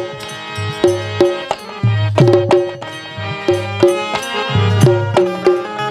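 Instrumental break in a Bundeli rai folk song: drums beat a steady rhythm of deep strokes and sharp strikes under a sustained melody line.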